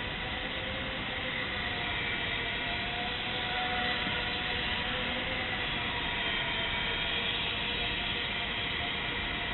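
Micro RC airplane's small electric motor and propeller buzzing steadily in flight, its whine wavering slightly in pitch, over a steady hiss.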